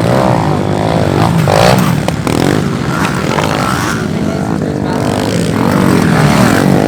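Pit-bike engines revving hard, their pitch rising and falling again and again with gear changes and throttle.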